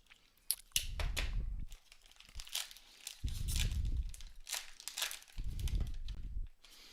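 Plastic trading-card packaging being handled, crinkling and tearing in four short bursts with low bumps of handling.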